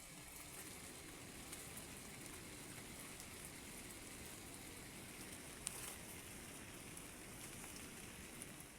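Rain falling steadily: an even hiss of rain with scattered sharper drop ticks, one a little louder about halfway through.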